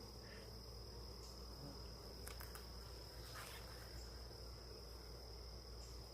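Crickets trilling steadily, a faint high-pitched chirring, over a low hum.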